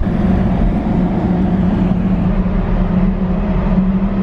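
Steady low engine rumble with a constant droning hum, heard inside a car ferry's enclosed vehicle deck.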